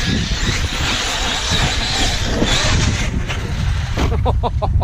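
Two electric RC monster trucks, a Traxxas X-Maxx 8S and an Arrma Kraton 6S, driving hard across wet sand on their brushless motors, tyres churning the sand. A quick series of short motor whines comes near the end.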